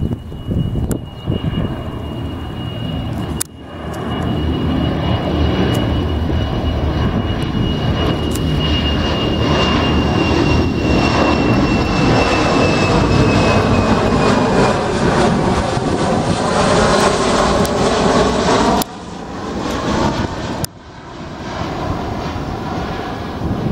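Airliner coming in to land, its engines passing close and loud with a thin high whine that slowly falls in pitch. The noise builds to its loudest past the middle, and the sound breaks off abruptly about three seconds in and twice more near the end.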